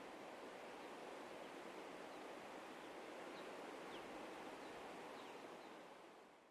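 Wind blowing through meadow grass and nearby trees: a faint, steady rustling hiss that fades out near the end. A few faint high chirps sound over it.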